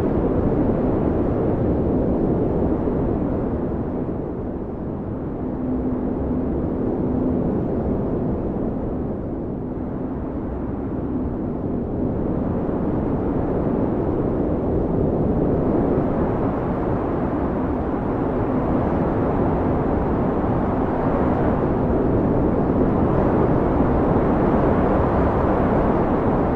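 Blizzard wind: a deep, steady rush that swells and eases every few seconds, with a faint low howling tone at times.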